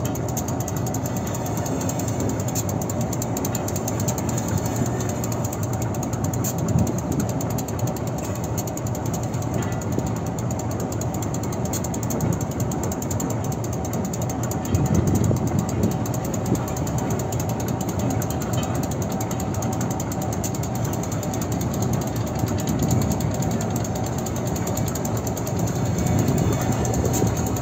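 Train rolling slowly over sand-covered track: a steady low rumble with the continuous rattle and clatter of the coaches, a little louder about halfway through.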